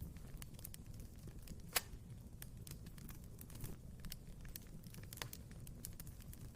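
Wood fire crackling in a fireplace: irregular snaps and pops over a low steady rumble of the flames, with one sharp pop about two seconds in and another louder pop near five seconds.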